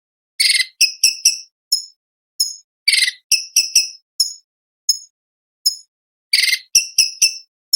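A cucak cungkok leafbird giving a run of sharp, high chips and three longer rattling trills, each separated by short gaps of dead silence. These are the bird's 'tembakan' (shot) calls, recorded as song tutor material.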